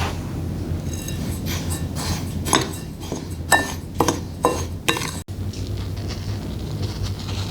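A run of sharp clinks and knocks of kitchenware, about ten in four seconds, over a steady low hum.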